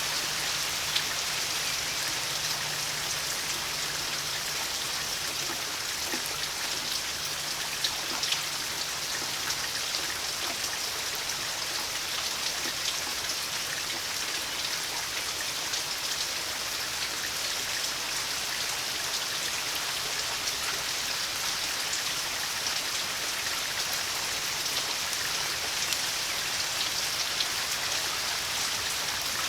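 Steady summer rain falling, an even hiss with scattered individual drops ticking through it.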